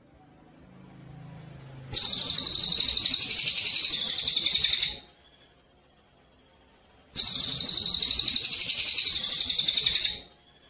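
Recorded songbird song: a rapid, high-pitched pulsing trill held for about three seconds, given twice with a pause between.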